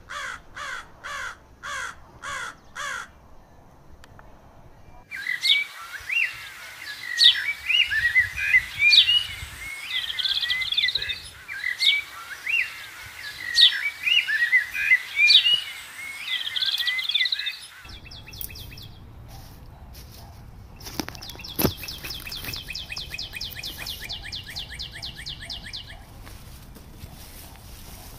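Birds calling outdoors. It opens with a run of about six short harsh calls, two a second. Then comes a busy chorus of sharp chirps and whistles, and later a fast, even trill, with one sharp click about three-quarters of the way through.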